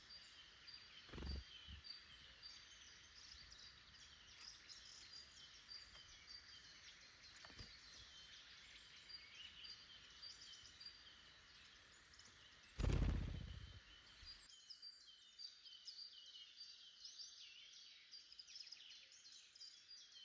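Woodland songbirds singing and calling, a dense run of short high chirps and trills. A low thump comes about a second in, and a louder low rumbling thud comes near the middle and lasts over a second.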